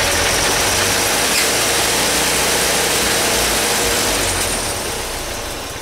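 1909 Cadillac four-cylinder engine being cranked by its added electric starter in a start attempt, close to catching but not running on its own. The sound is steady for most of the time, then dies away near the end.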